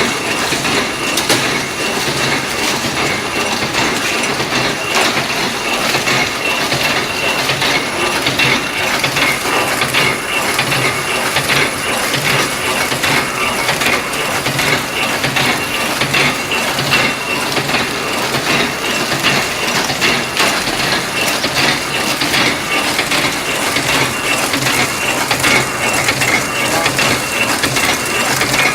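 Bread and biscuit packaging machine running: a continuous dense mechanical clatter of many small clicks and knocks over a steady hum.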